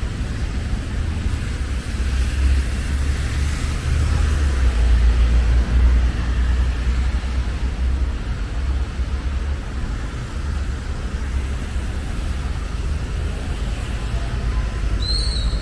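Road traffic passing on a city street, a steady rumble with a tyre hiss that swells around the middle. A short high squeak is heard near the end.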